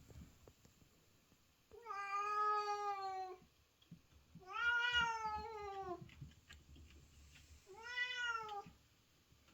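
Female cat in heat calling for a mate: three long, drawn-out meows, the last one shorter.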